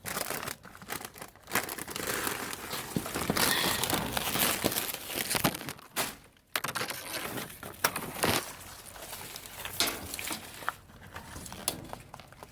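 Plastic bags and packaging crinkling and rustling as trash is rummaged through by hand in a dumpster, with scattered sharp knocks and clicks.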